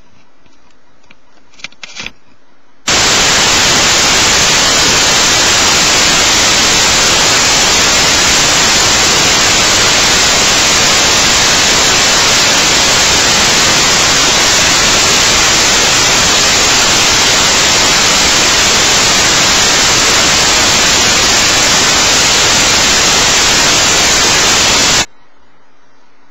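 Loud, steady white-noise static, even across all pitches. It cuts in abruptly about three seconds in and cuts off just as abruptly about a second before the end. A few faint clicks come before it.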